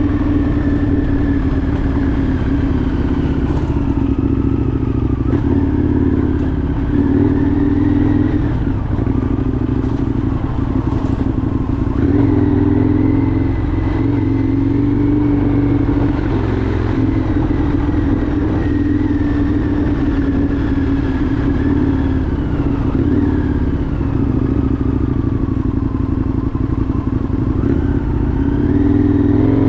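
Indian FTR 1200's V-twin engine running steadily under way, its pitch rising and falling gently as the throttle and speed change.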